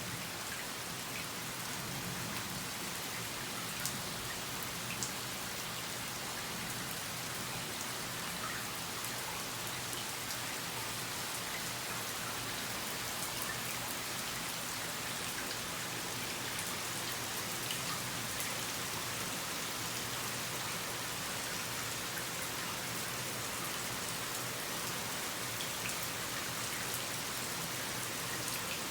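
Steady rain falling, an even hiss with scattered drop ticks, and a couple of sharper drip hits about four and five seconds in.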